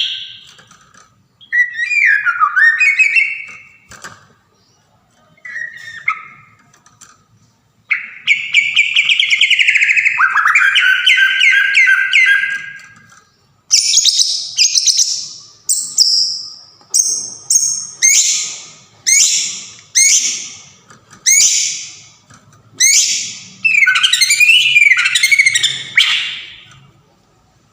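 White-rumped shama (Sumatran murai batu) singing loudly. It gives varied whistled and warbled phrases, then a string of short, sharply falling notes about one a second, ending in a rich warbling phrase.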